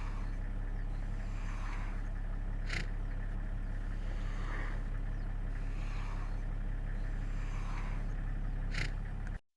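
Steady low engine-like hum, as from an idling vehicle, with softer sounds recurring about every second and a half and two short sharp high notes; it cuts off suddenly just before the end.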